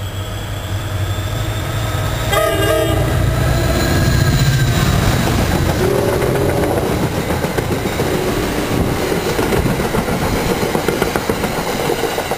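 Diesel-hauled commuter train passing close by. The locomotive's engine rumble builds, a short horn blast sounds about two seconds in, and then the coaches' wheels clatter over the rail joints as the train rolls past.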